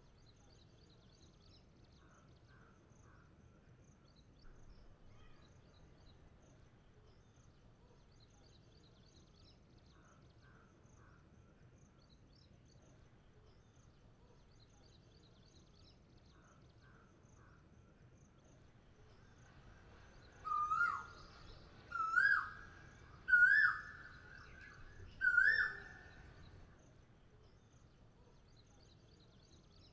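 Faint chirping of small birds over a low background hiss. About two-thirds of the way through, a louder bird calls four times, about a second and a half apart, each clear whistled call pitched a little higher than the last.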